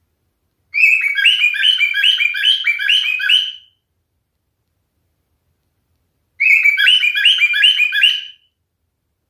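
Male cockatiel singing: two bursts of rapid, evenly repeated chirping notes, the first about three seconds long and the second, shorter, starting about six seconds in.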